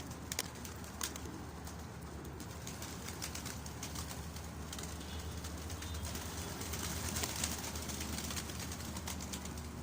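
A flock of domestic pigeons cooing and flapping their wings, with scattered sharp clicks and taps, two of them stronger in the first second.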